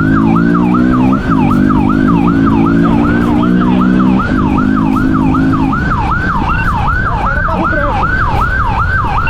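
Police siren in a fast yelp, sweeping up and down about three to four times a second. Under it an engine accelerates, its pitch rising and dropping back at two gear changes, then fades out about halfway through.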